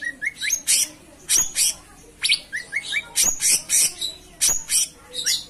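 Cucak cungkok singing in full voice: repeated phrases of sharp, high chirps and quick whistled glides, coming about once a second.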